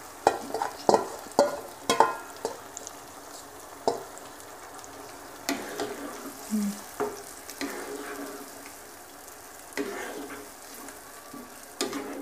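Yogurt-marinated beef liver sizzling in hot onion-tomato masala in a wok as it is stirred, with a steady frying hiss. A spatula knocks and scrapes against the pan a dozen or so times at uneven intervals.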